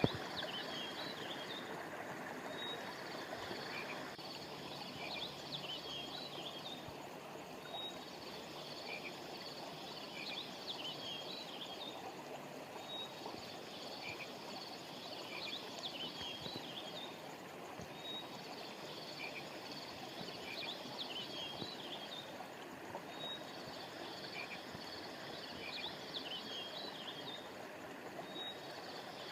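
Steady rush of river water flowing over stones, under a chorus of short high chirping calls from frogs, insects or birds that repeats the same pattern about every five seconds: a looped nature-sound recording.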